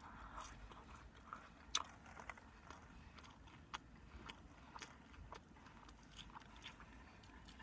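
A person chewing a mouthful of sub sandwich with the mouth working wetly: faint, scattered clicks and smacks, one sharper click a little under two seconds in.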